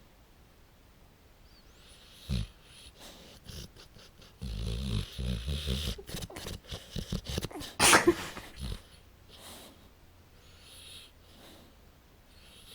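Pit bull puppy snoring in its sleep: soft wheezy breaths, a short thump about two seconds in, then several seconds of loud, fluttering snores from about four seconds in before it settles back to quiet breathing.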